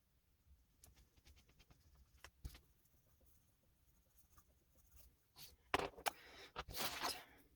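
Oil pastel stick scraping and rubbing on paper in short strokes, faint at first, with a louder run of strokes near the end.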